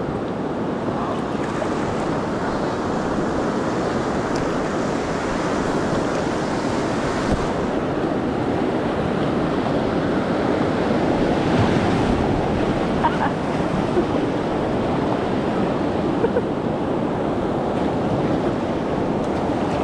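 Steady rushing of river water through rapids.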